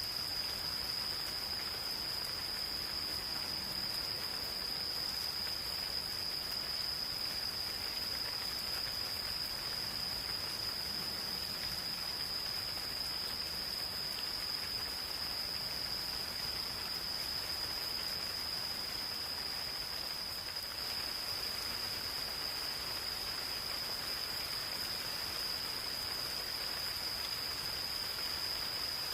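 Gentle rain falling steadily, with insects calling in one unbroken high-pitched drone over it.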